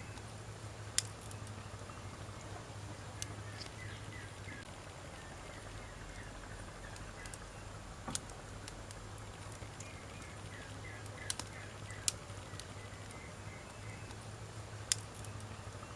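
Wood fire crackling, with a handful of sharp single pops of burning firewood every few seconds over a steady low hiss.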